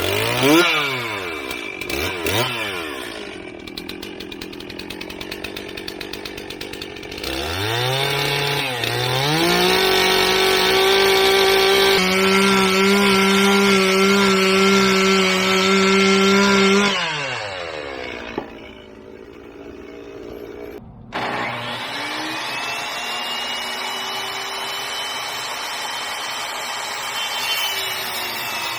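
Chainsaw revved twice, then opened up to full throttle and held steady for about eight seconds while slicing into a log, then dropped back to idle. From about 21 seconds in, a different steady motor with a rising whine runs.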